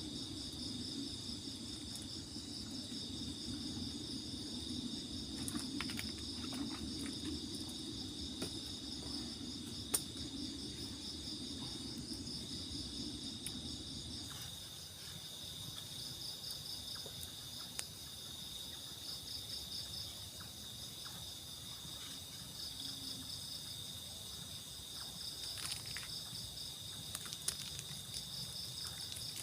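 A steady chorus of crickets and other insects, chirping high with a fast pulse. A low steady noise runs underneath and stops about halfway, and there is an occasional sharp click.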